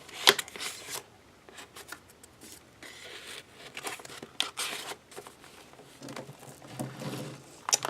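Paper pages of a handmade junk journal being turned and handled: short rustles and light taps and clicks, with a sharp tap just after the start.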